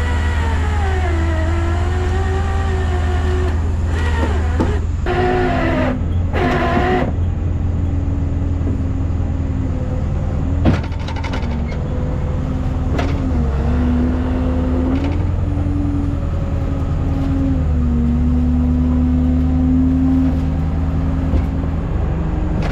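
Rollback tow truck running under load with a steady low engine drone and a whine that slides down in pitch over the first few seconds, then holds fairly level with small steps. A single sharp knock comes about eleven seconds in.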